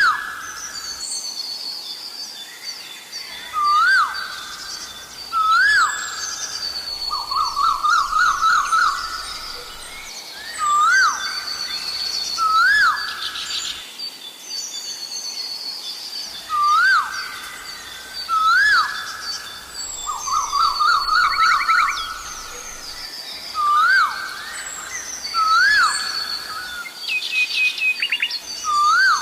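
Asian koel calling over and over, a rising call every two to three seconds, twice breaking into a fast run of repeated notes. Other birds chirp higher above it.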